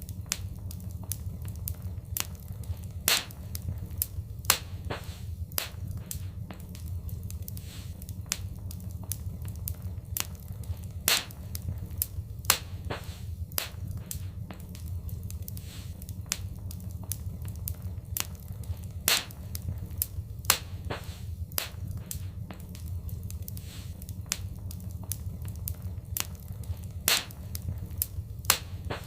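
Wood fire in a fireplace crackling and popping over a steady low rumble of flames. Sharp crackles come several times a second, with louder single pops standing out every few seconds.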